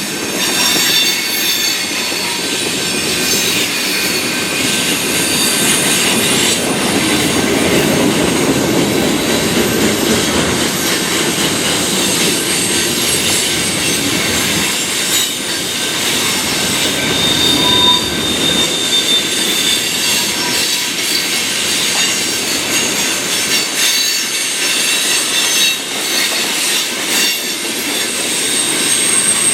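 Freight cars rolling past on the rails, with a steady rumble of wheels on the track and high, wavering wheel squeal that comes and goes.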